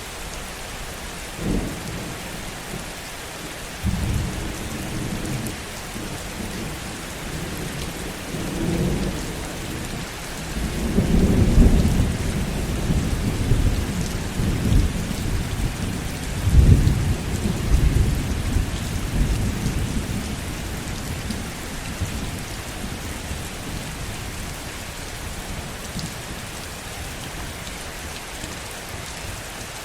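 Heavy rain falling steadily with a long roll of thunder: rumbles begin within the first few seconds, swell to their loudest around the middle, then fade back to rain alone.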